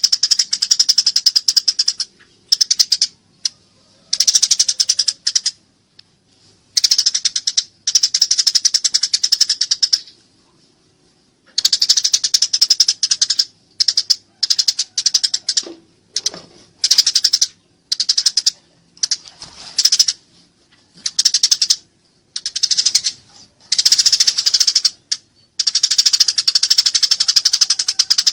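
Eurasian tree sparrow giving its harsh, rapid fighting chatter, a fast clicking twitter repeated in bursts of one to three seconds with short pauses between them.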